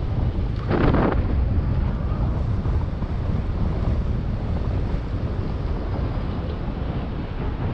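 Wind buffeting the microphone during a bike ride: a steady low rumble, with a louder rush about a second in.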